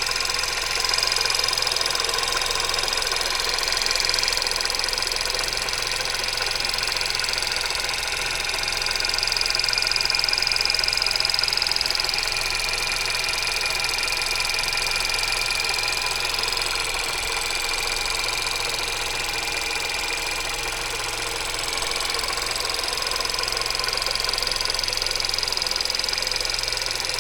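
Skoda Yeti's 1.2 TSI (CBZB) petrol engine idling steadily, with a high-pitched whine that swells and fades every few seconds. This is the abnormal running noise the owner hears whenever the engine is on, still present after a preventive timing-chain replacement.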